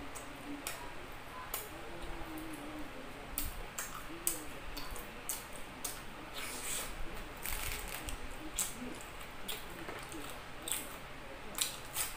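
Close-up eating sounds of a person biting into and chewing bread: irregular wet mouth clicks and smacks.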